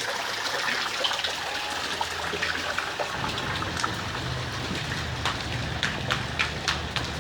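Steady rain falling, with running water. Short sharp water sounds come several times in the second half, and a low hum sets in about three seconds in.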